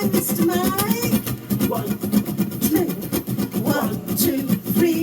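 Voices vocalizing in a sing-song way, with many short sharp clicks throughout.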